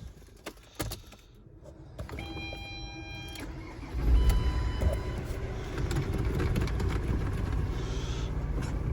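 Ford Transit Mk7 van's engine being started with the key: a few clicks and a short steady tone, then the engine fires about four seconds in and runs on at a steady idle.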